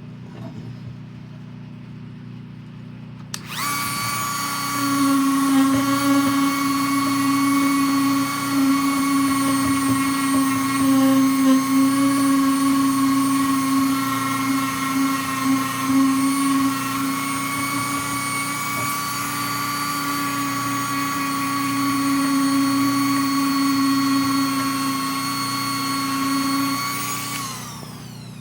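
An electric power tool starts a few seconds in and runs at a steady high-pitched whine for over twenty seconds, its note wavering slightly as it works the chainring, then winds down near the end.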